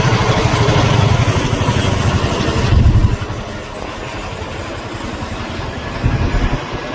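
Boeing Chinook helicopter flying past, its tandem rotors thudding in a fast, loud low beat. About three seconds in it drops sharply to a duller, quieter rumble, with a brief swell near the end.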